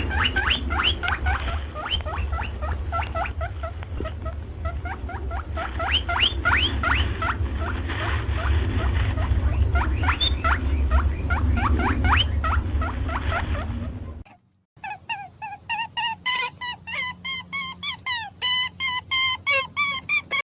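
Chipmunk calling: a long series of short, quick chirps over a low rumble of wind. After a brief cut about two-thirds through, a different, faster run of evenly repeated calls begins.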